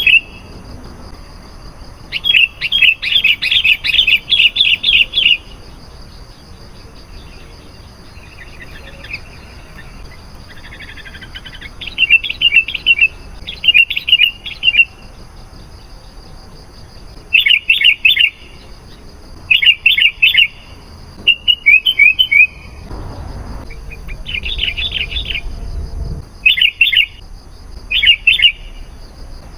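Sooty-headed bulbul (kutilang) singing: short phrases of quick, bright chirping notes repeated every second or two, with one longer run of notes a couple of seconds in. A low rumble comes in for a few seconds in the second half.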